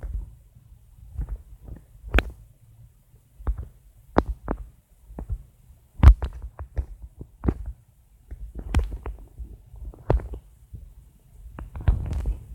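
Irregular taps and clicks close to the microphone, each with a dull low thump, a few a second with short pauses: fingers tapping and handling the device used for editing. The loudest tap comes about six seconds in.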